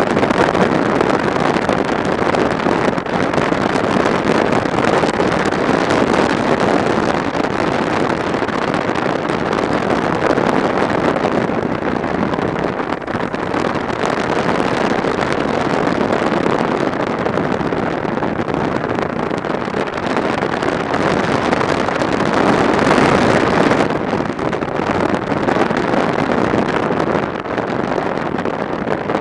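Wind rushing over the microphone of a motorcycle riding at speed, with engine and road noise mixed into the steady roar; it swells briefly about three-quarters of the way through.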